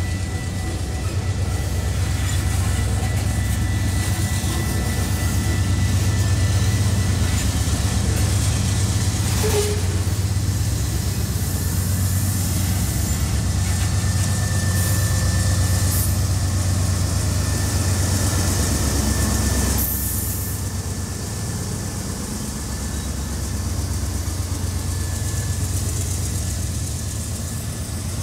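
Freight train of loaded tank cars rolling past at close range: a steady low rumble of steel wheels on the rails with a thin, high squeal running through it. A sharp clank comes about ten seconds in, and the rumble eases a little after about twenty seconds.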